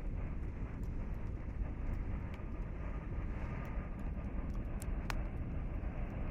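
Small campfire crackling with scattered sharp pops, over a steady low rumble.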